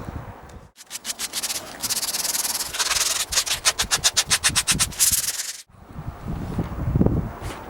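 Hand sanding with fast back-and-forth strokes, about seven a second, starting abruptly about a second in and cutting off near the end.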